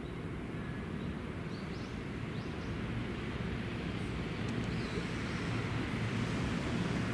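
Train passing through a railway station, its low rumble growing gradually louder.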